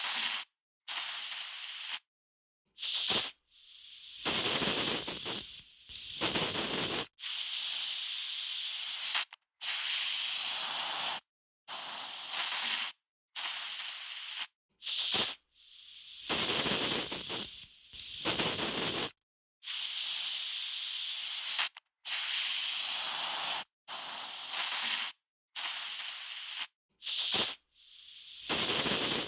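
Aerosol spray can spraying in repeated hissing bursts, some short and some lasting a couple of seconds, with brief silences between them.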